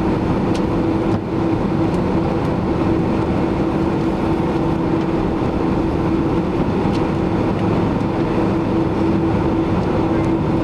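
Steady cabin noise inside a Boeing 767-300ER: an even rush with one steady mid-pitched tone running through it, and no change in level.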